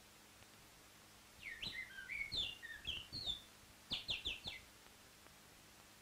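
A bird chirping: about three seconds of short, high twittering notes, some sliding up or down in pitch, ending with a quick run of four or five notes. A faint steady hum sits underneath.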